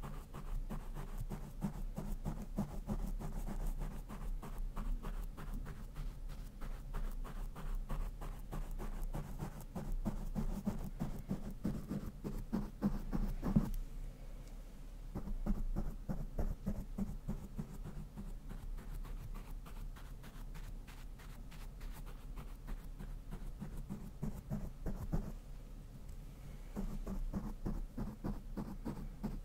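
A brush rubbed rapidly back and forth over a microphone's grille in quick, scratchy strokes, easing off briefly about halfway before picking up again. A steady low hum sits underneath.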